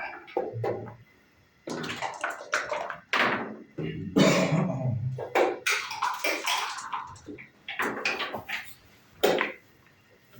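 Backgammon play: a string of sharp clicks and knocks of dice and checkers striking a wooden board.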